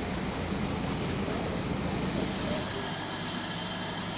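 Steady rumbling noise of a train on the move, with the deep rumble easing off about three seconds in.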